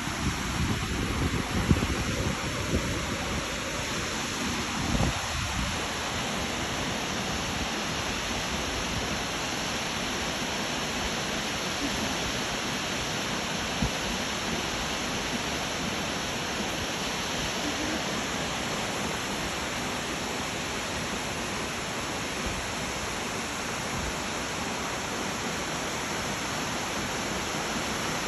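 Waterfall: a steady, even rush of falling water, with a few low thuds in the first five seconds.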